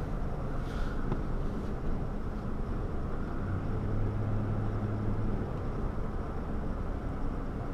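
Pickup truck driving: steady engine and road noise, with a low engine hum that grows stronger for a couple of seconds around the middle.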